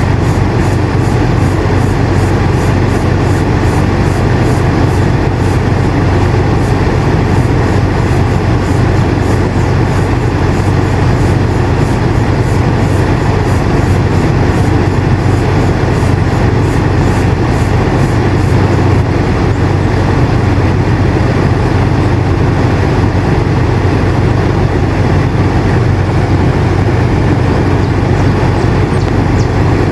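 Air conditioner running steadily: an even rush of air over a low hum.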